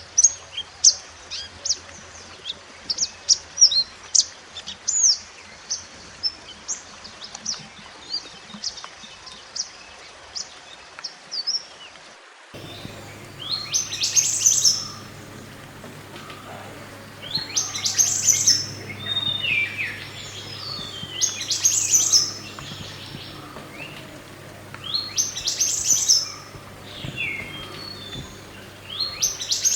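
Mantenan gunung song birds singing. First comes a run of rapid, high chirps. About twelve seconds in, the sound switches abruptly to separate song phrases roughly every four seconds over a low steady hum.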